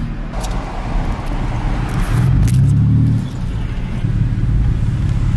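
Turbocharged V6 truck engine running at cruise, a steady low drone that swells about two seconds in and eases off a little after three seconds.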